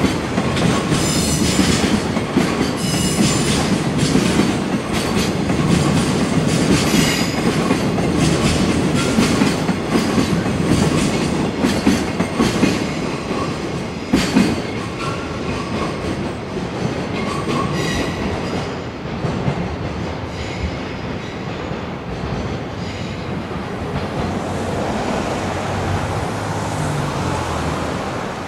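Freight train of loaded container flatcars passing, its wheels clacking steadily over rail joints with thin, high flange squeal coming and going on the curve. The clatter eases and grows quieter in the second half.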